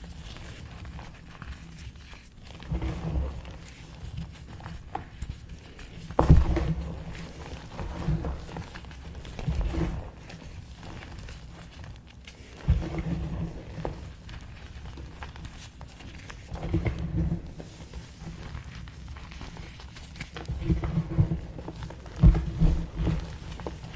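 Small blocks of gym chalk being crushed and crumbled by hand close to the microphone: irregular clusters of crunches every few seconds, the sharpest about six seconds in.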